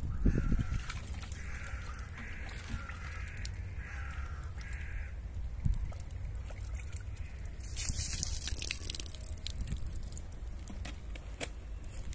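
A bird giving about five harsh calls in quick succession, over a steady low rumble, with a short hiss about two-thirds of the way in.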